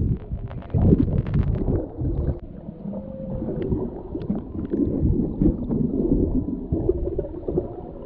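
Humpback whale song picked up underwater: low moaning tones that waver and slide in pitch, over gurgling water, with a cluster of knocks and splashes in the first two seconds.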